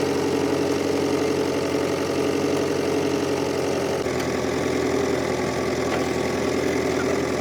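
An engine running steadily with a fast, even beat, its tone shifting slightly about four seconds in.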